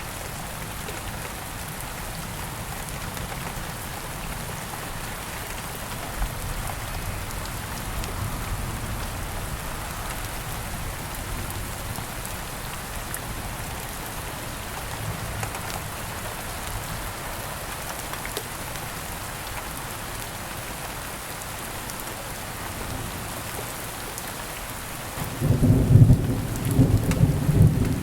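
Steady rain falling in an even hiss, with a loud low rumble of thunder rolling in near the end.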